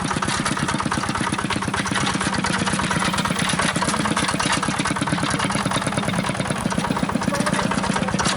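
A small engine running steadily at idle, with a fast, even chugging pulse.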